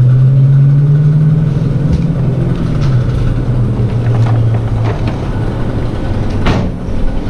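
A motor droning low and steady, fading out about five seconds in, with a few sharp knocks, the loudest near the end.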